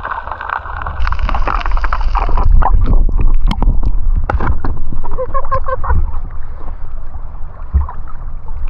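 Sea water sloshing and splashing close to the microphone over a heavy low rumble, with scattered sharp knocks and splashes.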